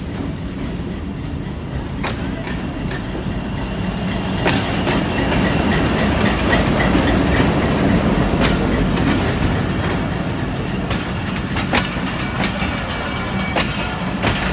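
Pakistan Railways diesel locomotive pulling a passenger train into the station close by: the engine runs with a steady low drone that grows loudest about halfway through as it passes, then the coaches roll by with sharp clacks of the wheels over rail joints.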